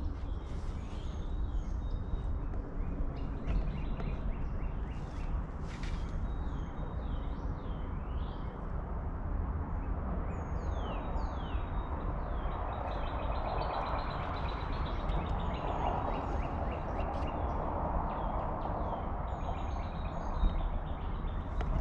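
Small woodland birds chirping and calling, with quick high falling notes, over a steady low rumble. A soft rushing noise swells and fades in the middle.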